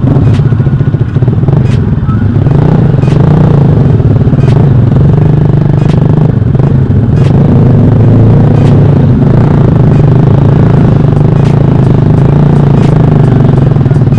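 Motorcycle engine with a loud aftermarket exhaust running steadily, growing louder about two seconds in. A faint tick recurs about every three-quarters of a second.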